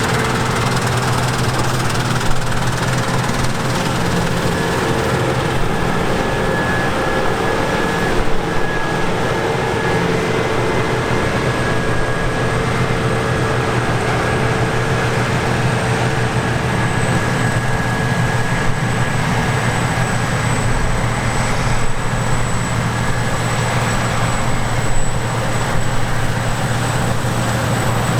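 Heavy harvest machinery running steadily: a deep engine hum with steady whines above it.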